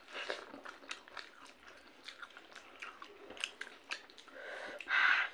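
Close-up chewing of a mouthful of rice and chicken curry eaten by hand, with many small wet mouth clicks and smacks. A louder, noisy rustle comes near the end.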